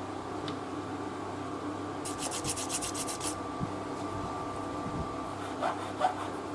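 A quick run of about eight hissy scraping strokes, over a steady background hum, followed near the end by a couple of short squeaks and a sharp knock.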